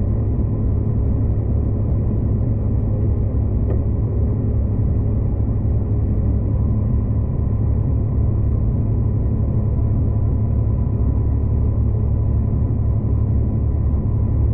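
V/Line passenger train running at speed: a steady, loud low rumble with a faint steady tone above it.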